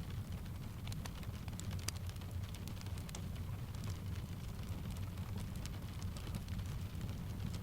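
Steady rain with scattered sharp crackles of a wood fire, over a constant low rumble.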